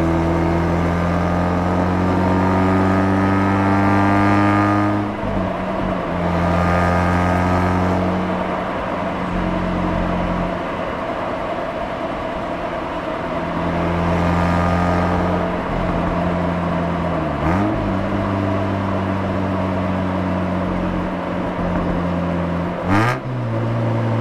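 Mazda RX-8's twin-rotor rotary engine heard from the exhaust under way. It pulls with the pitch rising for about five seconds, then breaks off and climbs again as if through a gear change, then runs steadier. Two quick dips and rises in revs come later on.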